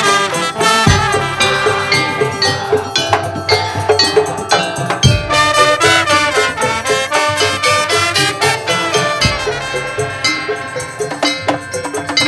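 Madurese tong-tong percussion ensemble playing: quick, dense melodic patterns of struck bell-like and wooden percussion, with a deep drum stroke about every four seconds.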